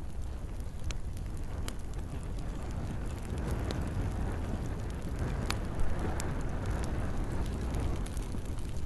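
Campfire crackling, with scattered sharp pops of burning wood over a steady low rumble and the hiss of gentle rain. One louder pop comes a little past halfway.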